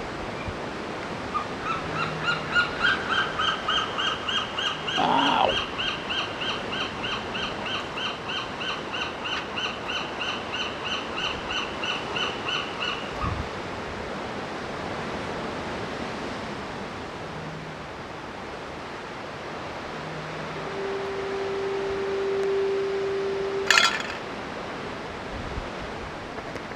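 Young gull calling: a rapid run of high piping notes, several a second on one pitch, for about twelve seconds, over steady wind and surf noise. Near the end a steady low tone sounds for about three seconds and cuts off with a sharp click.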